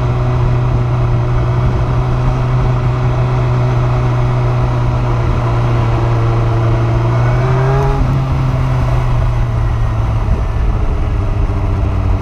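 Kawasaki ZZR1400's inline-four engine running steadily at cruising speed, heard from the rider's seat with wind noise. About seven seconds in the engine note rises briefly, then settles slightly lower.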